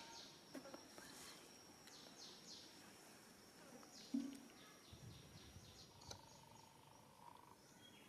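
Faint outdoor natural ambience: a steady high thin whine with repeated short falling chirps. There is a brief low note about four seconds in and a held mid-pitched tone near the end.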